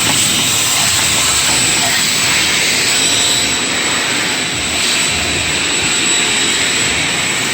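Shop vacuum running steadily with a thin high whine over its motor and airflow noise, sucking spilled coolant out of the engine's valley.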